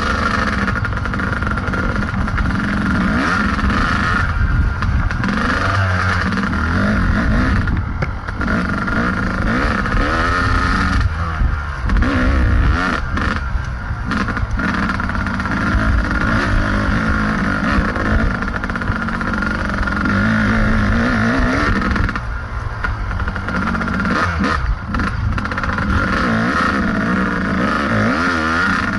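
Kawasaki KDX220 two-stroke dirt bike engine running on a trail ride, its revs rising and falling with the throttle and easing off several times.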